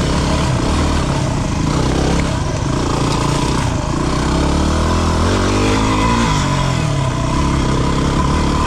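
250 cc single-cylinder dual-sport motorcycle engine running at low trail speed; about five seconds in it picks up revs briefly, then eases off again.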